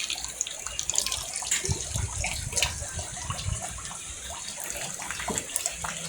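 Steady rain falling, with many small scattered drips and taps.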